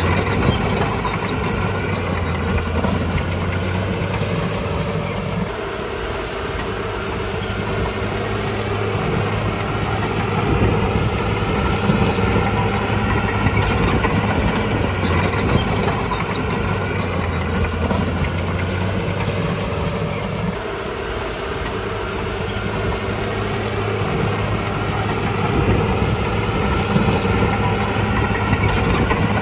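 Heavy diesel engine of a bulldozer running steadily, its engine note dropping and rising again twice, with a few sharp clanks.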